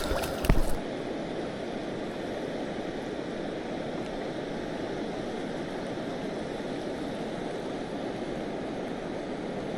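Steady rush of river water flowing over rocks, with a brief knock about half a second in.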